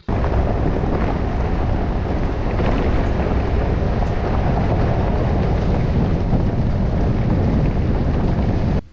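Loud, steady rumbling noise of wind buffeting the microphone, starting and stopping abruptly.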